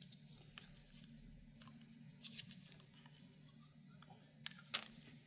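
Faint, scattered small clicks and light scrapes of small parts and tools being handled at a workbench, with a longer rub near the end, over a steady low hum.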